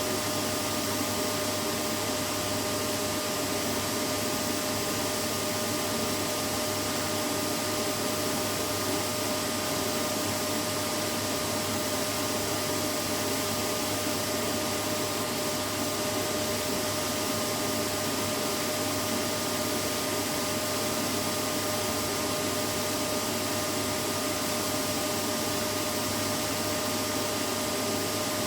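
Vacuum cleaner running steadily: a constant motor whir and airflow rush with a steady hum, no change in pitch or level.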